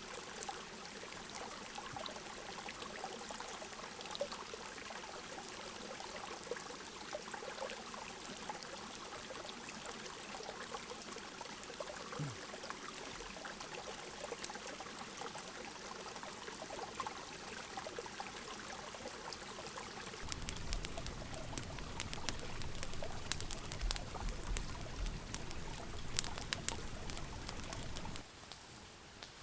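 Steady trickling and pouring of a river running through the forest. About two-thirds of the way in, a low rumble with scattered clicks joins it, then cuts off abruptly shortly before the end.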